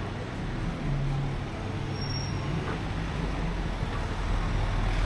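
City street traffic: motor vehicle engines running with a steady low hum over road noise, growing louder near the end as a vehicle comes closer.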